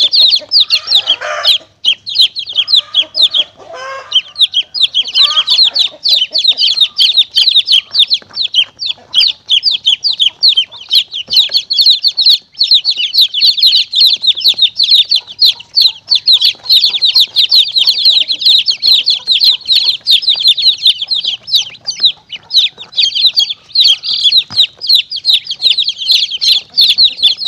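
Many baby chicks peeping without pause, a dense stream of short high cheeps, with a few lower calls mixed in over the first few seconds. It is a lure call for drawing in monitor lizards and mongooses.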